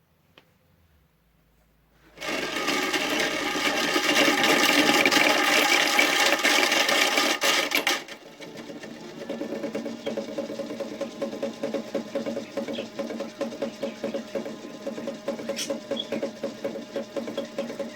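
Small electric motor of a toy washing machine running: it starts loud about two seconds in, then drops suddenly at about eight seconds to a quieter, fast-pulsing whir.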